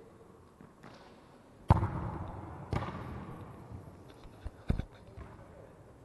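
Sharp thumps of a football being kicked and bouncing: a loud one about two seconds in, another a second later, and a third near the end.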